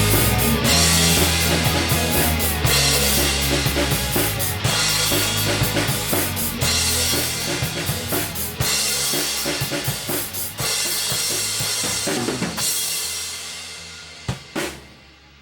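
Rock band playing the instrumental end of a song, with drums to the fore over bass and guitar. The band dies away about twelve seconds in, and two sharp drum hits come close together near the end.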